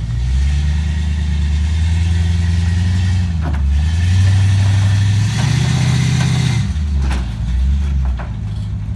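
A motor vehicle engine running; its pitch steps up and down several times, rising through the middle and then dropping back.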